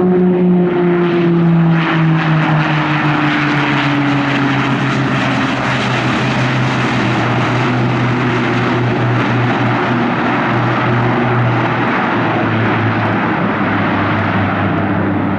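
A fixed-wing aircraft passing close by. Its engine note falls steadily in pitch as it goes past, under a loud, broad rushing noise that builds from about a second in.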